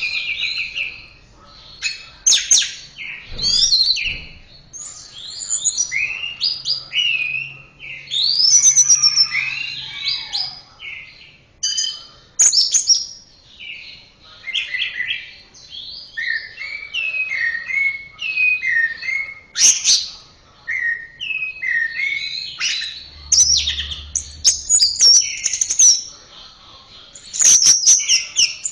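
Orange-headed thrush (anis merah) singing a long, varied run of short whistled and chattering phrases, one after another with brief gaps.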